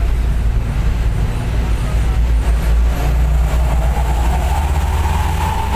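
Bus engine and its 'serigala' (wolf) exhaust running with a heavy, steady low rumble while the bus is under way. A rising whine joins about three seconds in.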